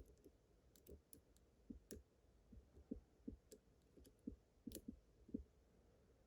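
Faint, irregular small clicks and ticks of a lock pick probing and lifting the pins of a pin-tumbler challenge lock while tension is held on the core, with pin 6 binding hard. The clicks come thickest from about one to five and a half seconds in.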